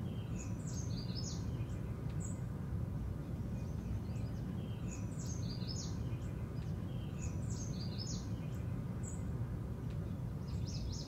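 Songbirds chirping in short repeated phrases every couple of seconds, over a steady low hum of room ambience.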